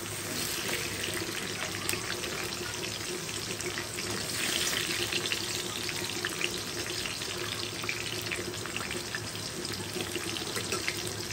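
Drumstick, bean and carrot pieces sizzling steadily in hot oil in a kadai, with a metal ladle scraping and clinking against the pan now and then as the fried pieces are lifted out.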